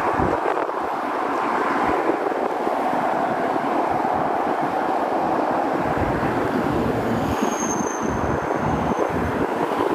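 Steady sea and wind noise on the shore, with gusts buffeting the microphone.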